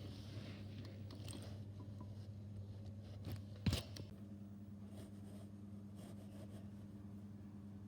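Faint steady low hum, with a single sharp click a little past halfway.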